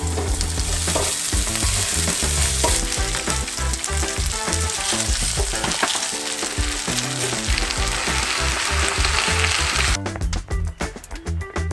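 A steady, loud hiss that cuts off suddenly about ten seconds in, over background music with a steady beat.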